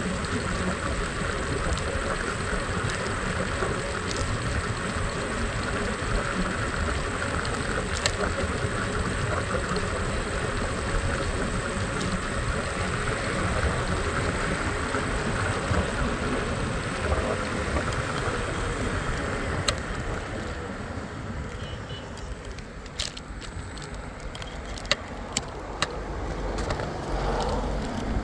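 Scooter ride in city traffic: steady engine and road noise with surrounding cars, easing off about twenty seconds in, with a few sharp clicks near the end.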